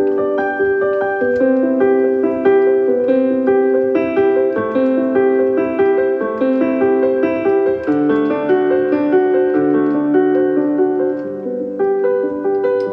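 Background piano music: a steady flow of gentle repeated notes, with a lower bass line coming in about eight seconds in.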